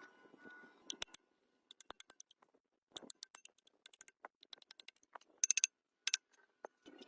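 Scattered light clicks and taps, sharp and short, with a quick run of clicks about five and a half seconds in.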